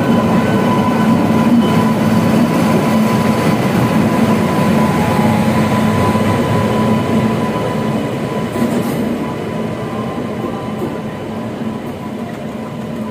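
Passenger train coaches rolling past at close range: a loud, continuous rumble and rattle of wheels on rail with a thin steady whine over it, easing a little in the second half.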